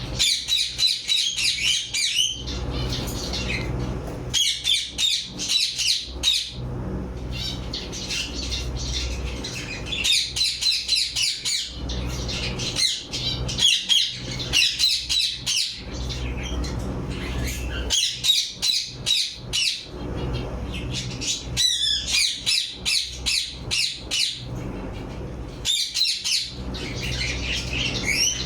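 Aviary parrots chirping and squawking in rapid chattering bursts of a second or two, with short pauses between, over a low steady hum.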